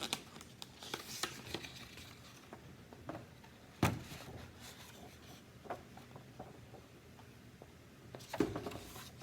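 Quiet handling of a picture book: paper rustling and scattered small clicks and taps, with one sharper knock about four seconds in and a short rustle near the end.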